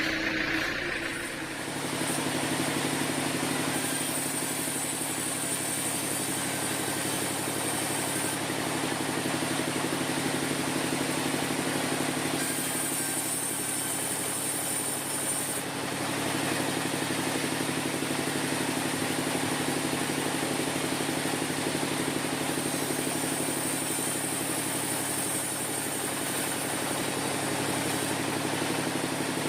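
Sawmill machinery running steadily with a low, even hum. A higher hiss rises three times and falls back each time.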